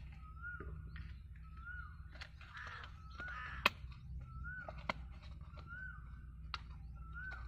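A bird repeating a short rising-then-falling call every second or so. Over it come rustling and a few sharp clicks of a thin plastic cup being fitted over a mango, the loudest click a little past halfway.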